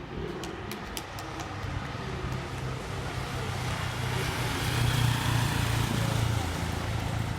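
Lead motorcycle passing at road speed, its engine hum and road noise building to a peak about five seconds in, then easing slightly. A few sharp clicks come in the first second.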